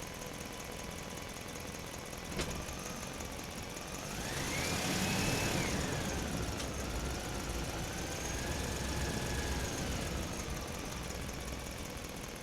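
Small electric motor of a toy dump truck whining, rising in pitch about four seconds in, then settling lower and holding before fading near ten seconds. There is a single click just after two seconds.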